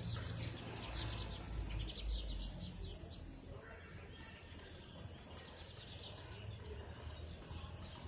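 Small birds chirping in quick runs of high notes, in three bursts: at the start, from about one to two and a half seconds in, and again around six seconds in. A steady low rumble runs underneath.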